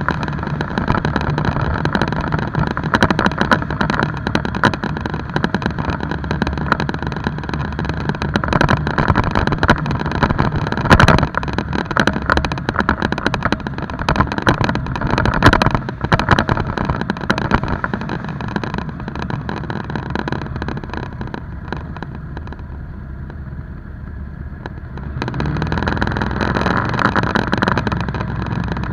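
Motorcycle engine running under way, mixed with a dense rushing noise. About three-quarters of the way through it eases off and drops quieter for a few seconds, then picks up again near the end.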